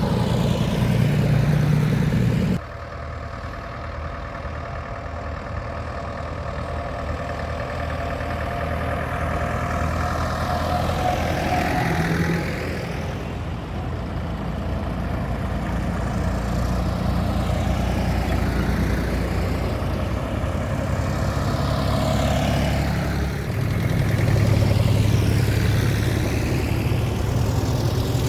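Vintage tractor engines running as tractors drive past one after another, the engine note rising and falling with each pass. The sound changes abruptly about two and a half seconds in.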